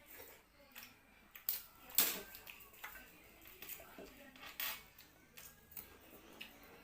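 Eating from a plate: irregular clinks, knocks and scrapes of cutlery or fingers against the dish, the loudest about two seconds in and again a little past halfway.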